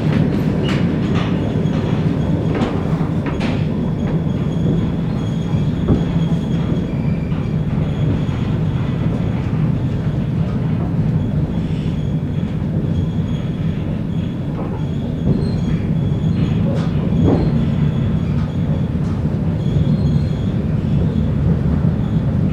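ER2K electric commuter train running, heard from inside a passenger car: a steady low rumble with scattered knocks from the wheels and faint high squealing tones that come and go.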